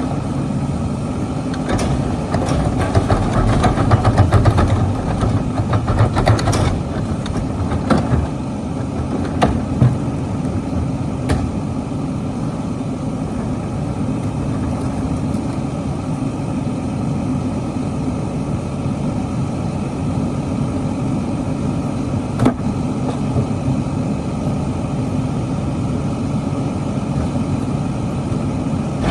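Garbage truck engine idling steadily, rising louder for a few seconds near the start with a series of knocks and clunks, and one more sharp knock later on.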